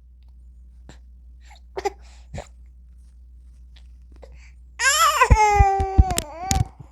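Baby's voice: a few soft sounds, then about five seconds in a loud, high-pitched cry of about a second and a half, with a few low knocks under it.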